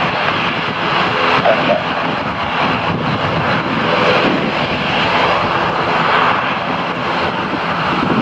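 Airliner engines running loud and steady: a broad rushing noise with faint steady tones underneath.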